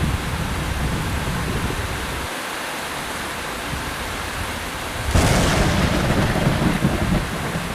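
Heavy rain falling steadily, with a low thunder rumble dying away in the first couple of seconds. About five seconds in a sudden sharp thunder crack breaks in and rolls on as low rumbling.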